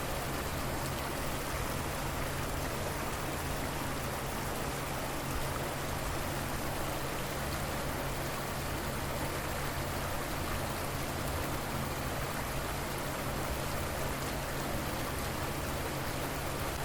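River water flowing, a steady, unbroken rush, with a faint steady low hum underneath.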